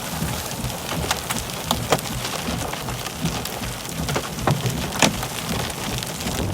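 Steady rain, with individual drops striking close by as sharp ticks, a few standing out about a second in, near two seconds in and about five seconds in.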